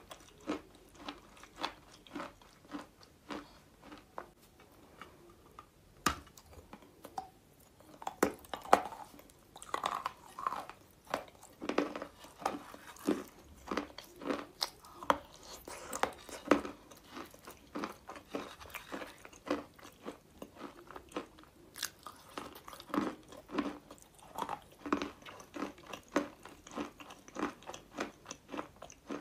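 Biting and chewing pieces of dry chalk coated with clay: a dense, irregular run of small crisp crunches.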